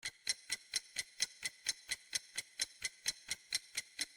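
Ticking clock sound effect, a fast even tick about four times a second.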